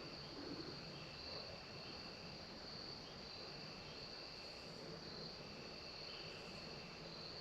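Crickets chirping faintly: a steady high trill, with a second, lower trill that starts and stops every second or so.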